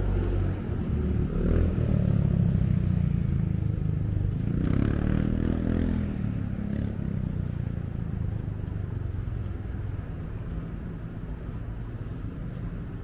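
Street traffic: motor vehicles passing close by, their engines rising in pitch about halfway through, then a steadier fading hum.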